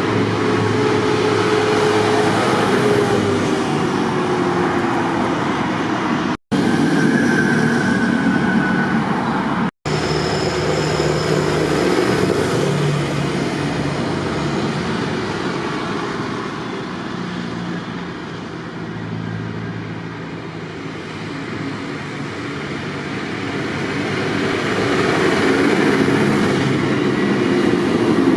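Tractor engines running, a steady dense mechanical rumble that cuts out for an instant twice early on and eases a little past the middle before swelling again.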